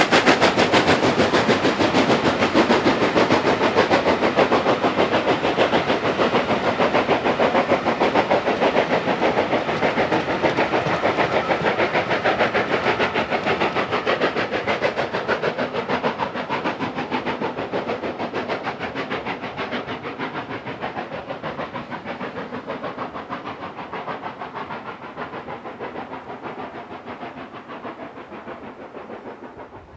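Steam locomotive working hard, its exhaust beating in a fast, even rhythm with a hiss of steam, fading steadily as it moves away.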